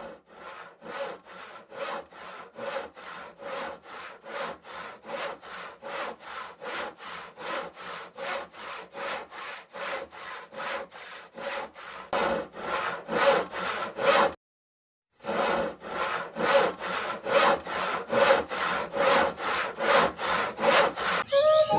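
Hand saw cutting wood in steady back-and-forth strokes, about two to three a second, briefly broken by a short gap after the middle.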